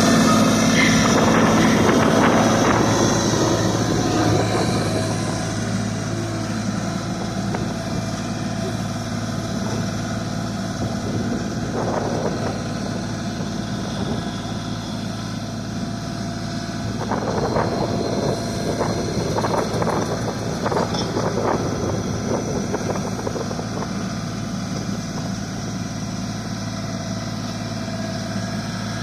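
Tractor engine running at a steady idle-like hum, with a few short noisy bursts about twelve seconds in and again about two-thirds of the way through.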